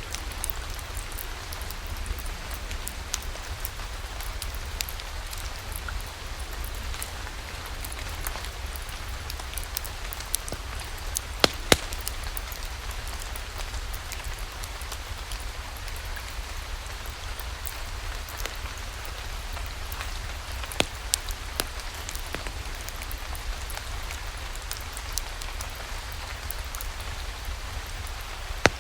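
Steady rain mixed with a wood fire in a fireplace, with scattered sharp crackles and pops over the even hiss. The loudest pops come in pairs, about eleven seconds in and again about twenty-one seconds in.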